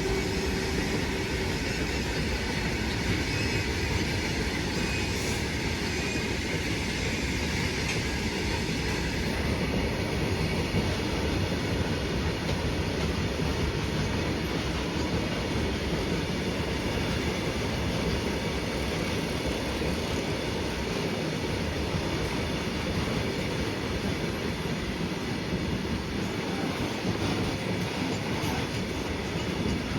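Indian Railways freight train rolling along the track: a steady, unbroken noise of wagons on the rails.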